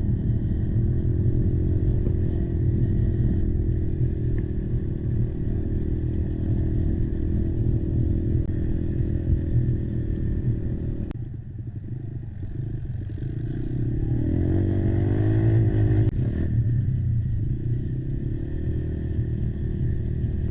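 Quad engine running under throttle. It eases off about halfway through, revs up with a rising pitch for a couple of seconds, then drops back to a steady run.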